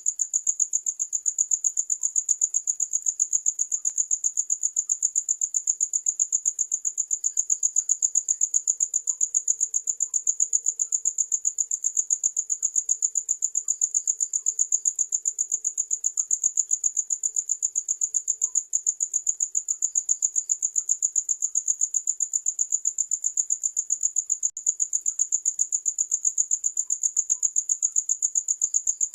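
Cricket chirping without a break: a steady, high-pitched trill that pulses evenly several times a second.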